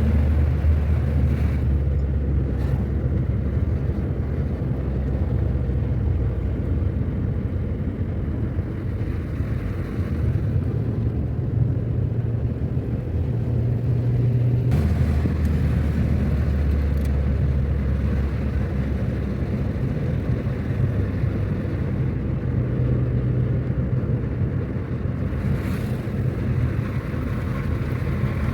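A car driving along a road: a steady low rumble of engine and road noise, with the engine note shifting about halfway through.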